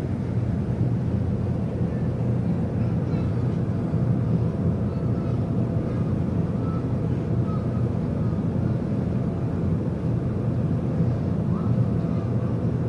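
Steady low rumble of a cruise ship's machinery while it manoeuvres to dock, with a faint steady hum above it.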